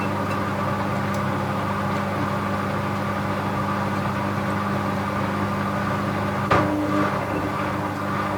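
Bauknecht WA 7778 W washing machine running, its motor humming steadily, with one sharp knock about six and a half seconds in. The drum bearing was already beginning to fail, though not yet badly.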